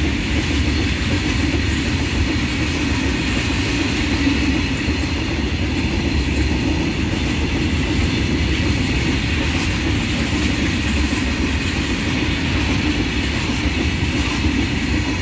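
Goods train of open-top freight wagons passing on the adjacent track: steady, unbroken noise of wagon wheels running on the rails.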